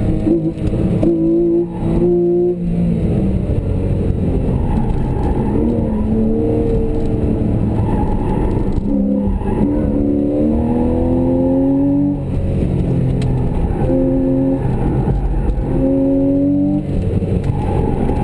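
Porsche 911 Carrera S's flat-six engine heard from inside the cabin under hard driving, revving up and down, its pitch climbing and then dropping sharply several times.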